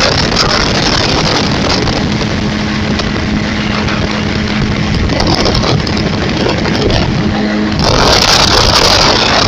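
Loud rushing noise of a moving vehicle. A steady low engine hum comes in about two seconds in, and the noise grows brighter and louder near the end.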